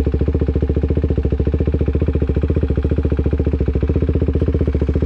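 A 373 cc single-cylinder motorcycle engine idling steadily, with an even, rapid beat.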